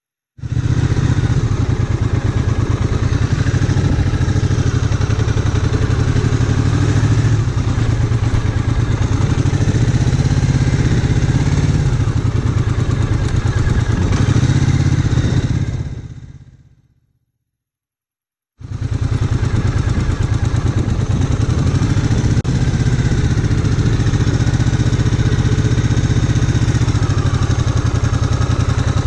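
Motorcycle engine, a Triumph Bonneville America parallel twin, running steadily and loudly. Its sound fades out about sixteen seconds in, and after a second of silence it cuts back in abruptly.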